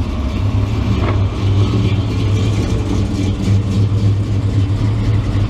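A car engine idling loudly and steadily, with a low pulsing beat.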